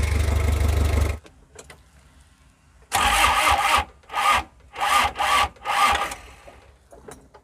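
Hot Mazda R2 four-cylinder diesel engine running, then shut off about a second in. About two seconds later the starter cranks it in one longer burst followed by several short, uneven bursts, without the engine catching. This is a hard hot start, which the mechanic blames on a faulty starter.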